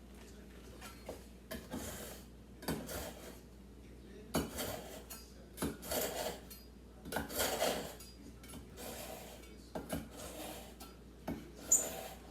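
Kitchen knife being sharpened, drawn again and again across a knife sharpener in a series of rasping strokes at uneven spacing, with a sharp clink near the end.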